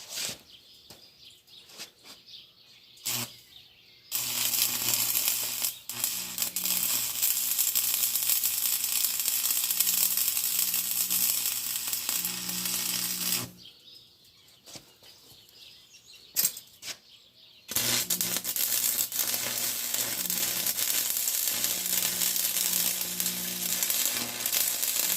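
Stick (arc) welding on a steel hand-truck axle: the arc crackles and sizzles in two long runs, from a few seconds in to past the middle and again from about two-thirds through, with a low electrical hum from the welder under it and a few sharp clicks before the first run. Holding the arc in one spot burned through the thin metal during this welding.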